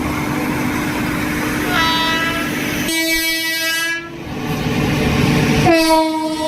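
Train horn blowing over the steady running noise of a train: one long blast starting about two seconds in that shifts to a lower, stronger pitch partway through, then a second blast near the end.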